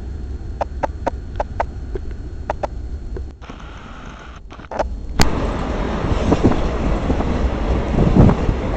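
Freight train passing: a few sharp clicks in the first seconds, then about five seconds in the train's sound rises suddenly to a loud, steady rumble.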